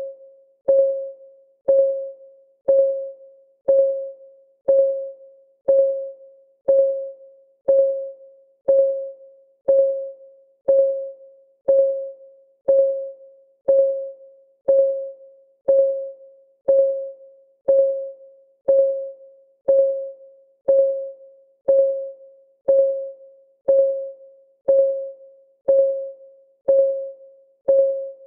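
Clock ticking in a steady tick-tock, about two ticks a second, alternating a louder and a softer tick, each a short click with a brief ringing tone.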